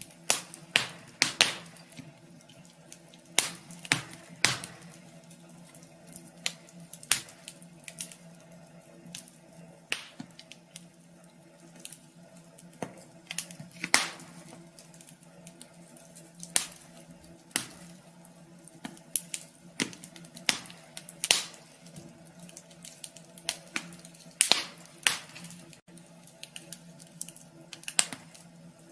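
Wood fire crackling in a wood stove: irregular sharp pops and snaps, a few much louder than the rest, over a steady low hum.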